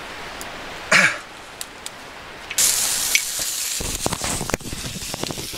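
A brief cough about a second in. From about two and a half seconds in, carrots and asparagus sizzle loudly in butter in a frying pan over a fire, a steady hiss with crackles and pops.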